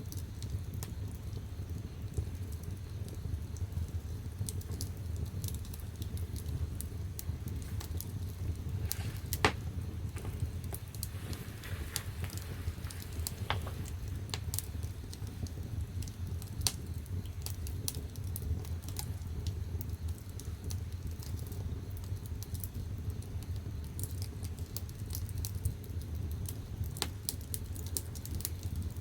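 Firewood burning in the firebox of a wood-fired bath heater, crackling and popping irregularly over a steady low rumble, with one louder pop about nine and a half seconds in.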